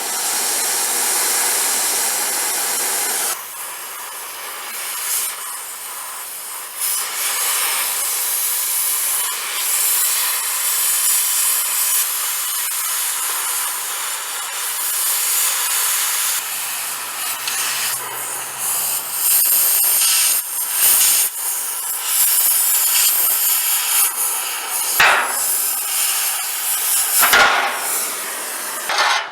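A power tool cutting or grinding steel gives a harsh, hissing noise in several stretches that stop and start abruptly, with two sharp metal knocks near the end.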